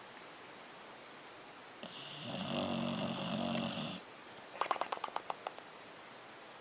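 A dog snoring: one drawn-out buzzing snore of about two seconds, then a short fluttering rattle of quick pulses about half a second later.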